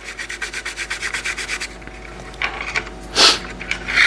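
Rapid rubbing strokes, about eight a second for under two seconds, followed by a few louder scraping sweeps, the loudest about three seconds in.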